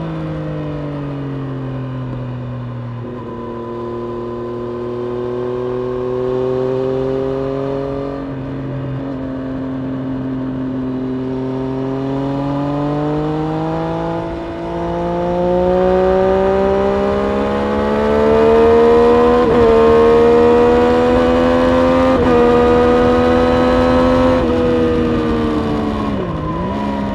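Triumph Street Triple RS's 765 cc inline three-cylinder engine running under load at track speed. Its pitch holds fairly steady at first, then climbs slowly through the second half with a couple of brief jolts, and falls sharply and comes back up near the end.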